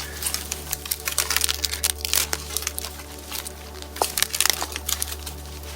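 Dry wood crackling and snapping in quick, irregular cracks, some sharp and loud, as a campfire of twigs is made.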